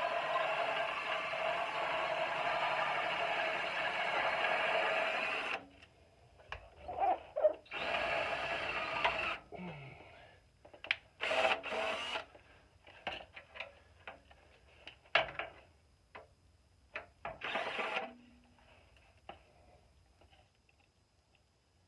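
Power drill driving self-tapping sheet metal screws into a steel muffler: one long steady run that stops about five and a half seconds in, then several short bursts with knocks and clicks between them.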